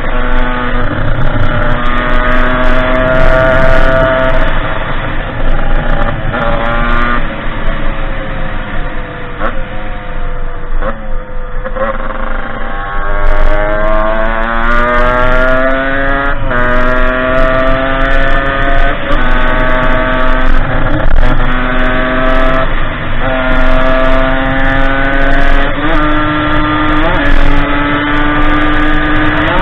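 Derbi 50cc two-stroke dirt-bike engine under way, its revs climbing and then dropping sharply again and again. About ten seconds in the revs sink off the throttle, then climb steeply again.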